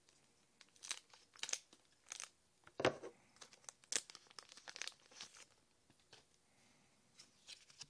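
A Pokémon card booster pack's wrapper being torn open and crinkled by hand: a run of short, irregular crackles and rustles.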